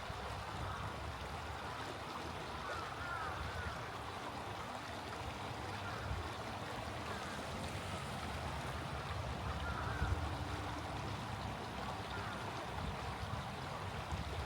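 Small stream flowing steadily, with a few faint short bird calls over it, about three seconds in and again near ten seconds.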